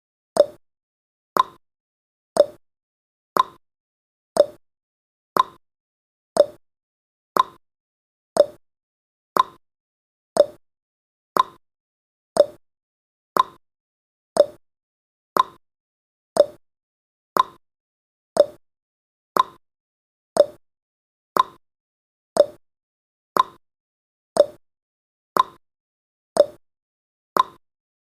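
Countdown timer's tick sound effect: a short, sharp tick, once every second at a steady pace.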